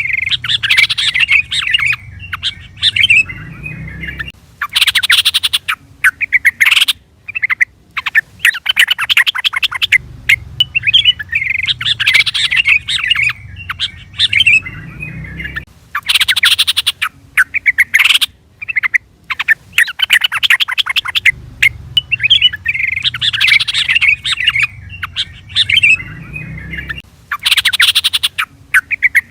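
Yellow-vented bulbul (trucukan) calling: loud, bubbly bursts of chattering chirps broken by short pauses, the same sequence coming round about every 11 seconds, as in a looped lure call.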